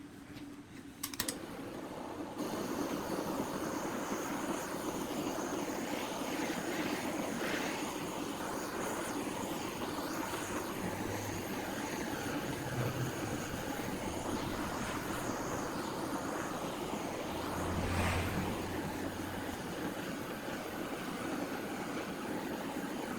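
A machine switching on about a second in, then running with a steady drone and a thin high whine.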